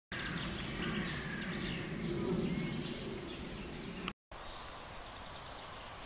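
Small birds chirping over a low rumble of outdoor ambience. The sound cuts out for a moment about four seconds in, then quieter ambience with birds continues.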